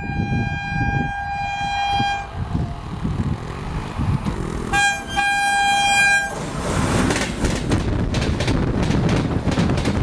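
A WAP-7 electric locomotive's horn sounds a held blast that ends about two seconds in, then a short toot and a second blast of about a second. The train then passes at speed: the wheels of its LHB coaches hammer the rail joints in a rapid, loud run of sharp clacks, a gun-firing track sound.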